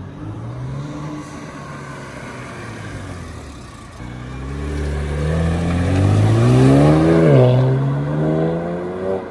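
BMW 335is's twin-turbo N54 inline-six, fitted with an aftermarket blow-off valve and charge pipe, accelerating hard. Its pitch climbs from about four seconds in, drops sharply at a gear change a little after seven seconds, then climbs again until it cuts off near the end.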